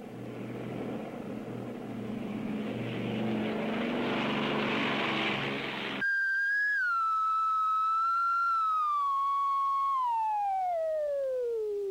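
Aircraft engine noise builds for about six seconds and is cut off suddenly by a comic falling-whistle sound effect. The whistle is one clear tone that sinks slowly, then slides steeply down in pitch near the end, the kind of whistle that marks something falling or crash-landing.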